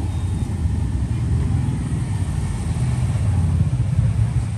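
A steady low rumble with no distinct clicks or strokes.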